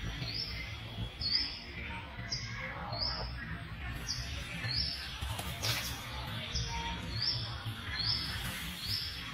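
A bird's short, high chirp repeated over and over, about one to two a second, over a steady low rumble.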